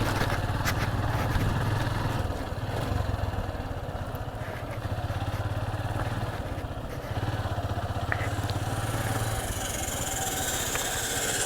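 Motorcycle engine running steadily at low revs, a low even throb, easing slightly a few seconds in and picking up again about seven seconds in.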